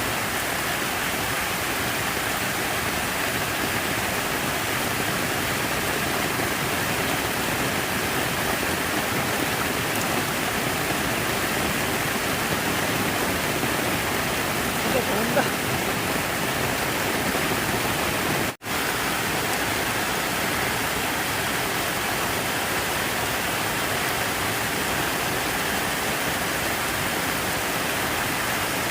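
Steady, unbroken rush of falling, splashing water, like a fountain or artificial waterfall. The sound cuts out for an instant about two-thirds of the way through.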